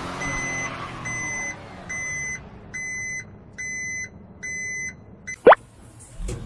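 Truck reversing alarm beeping a steady high tone about once a second over a low engine rumble, as the toy dump truck backs up. About five and a half seconds in, a short, loud rising swoop sound effect cuts in.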